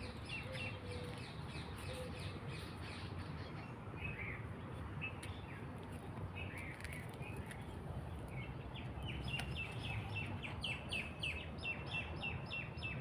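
Small birds chirping, short repeated chirps, with a quicker run of chirps over the last few seconds, over a steady low background rumble.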